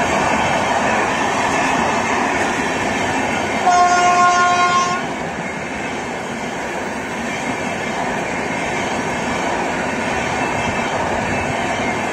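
LHB high-capacity parcel vans running past at speed, a steady rumble of wheels on rail. About four seconds in, a train horn sounds once for about a second, the loudest moment.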